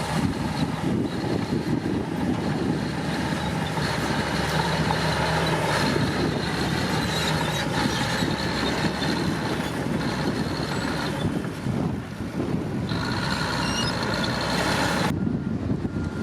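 Komatsu D65P bulldozer's diesel engine running steadily while working, with a thin high tone coming and going over it. The higher sounds drop away abruptly about fifteen seconds in.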